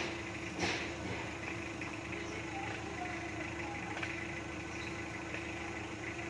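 Vehicle engine idling steadily, a constant hum with one held tone. There is a single sharp knock about half a second in.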